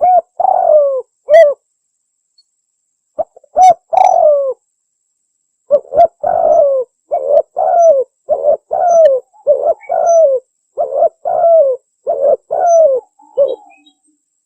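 Spotted dove (tekukur) cooing: a few phrases in the first few seconds, then a steady run of about seven phrases, each a short note followed by a longer coo that falls in pitch.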